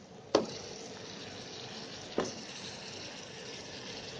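Potato pieces dropped into hot mustard oil with fried spices and onions: a sharp knock about a third of a second in and another just past two seconds as pieces land in the pan, then a steady sizzle.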